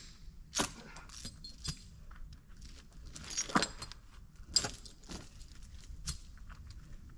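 Steel log chain being pulled off a log, its links clinking and rattling in irregular bursts.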